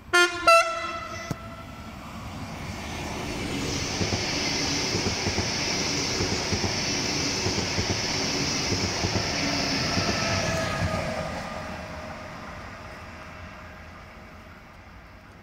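Two short, loud blasts of a Deutsche Bahn Intercity 2 double-deck train's horn about a third of a second apart, then the train running past with a swelling rush of wheels on rail and a steady high hiss, fading away over the last few seconds.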